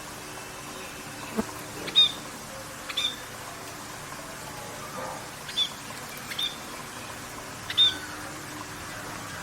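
Parrots giving short, high chirping calls, about five of them spaced a second or two apart, over a steady low background hum.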